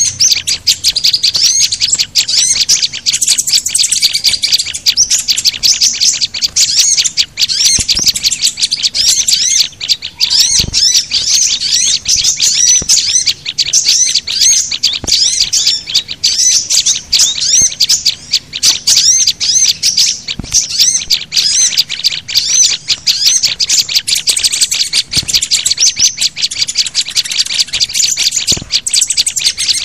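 Bird-luring (pikat) recording: a dense, unbroken chorus of small songbirds chirping and twittering rapidly in many overlapping high calls, mixing white-eyes, prinias, sunbirds and flowerpeckers. A few faint low thumps sound through it.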